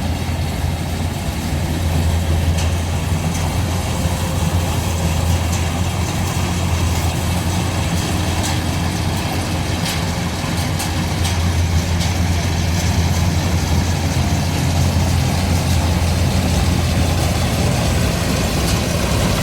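Combine harvester engine running steadily with a deep, even hum, with a few light ticks from the machinery.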